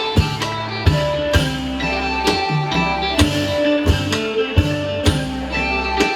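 Northeastern Thai (Isan) pong lang folk band playing, with plucked and sustained melody notes over a regular beat of strikes about twice a second.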